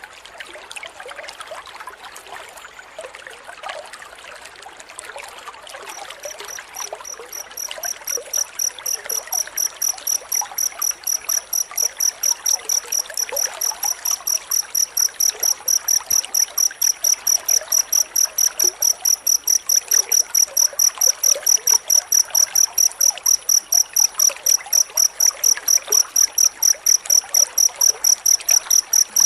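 Cricket chirping in a fast, evenly spaced high trill that starts about six seconds in and grows louder. Water trickles underneath throughout.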